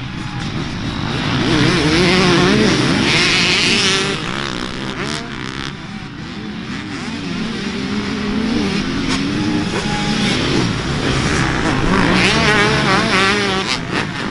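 Dirt bike engines revving up and down as the bikes race, their pitch rising and falling with the throttle; louder about two seconds in and again near the end.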